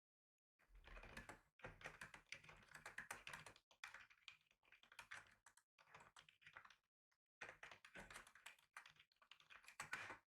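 Typing on a computer keyboard: faint, quick runs of key clicks broken by short pauses, the longest pause about two-thirds of the way through.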